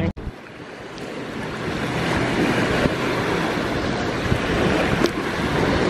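Steady rushing water with wind buffeting the microphone, building up over the first couple of seconds.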